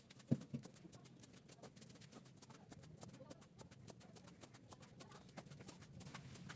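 Irregular light clicks and taps, with one sharper knock about a third of a second in.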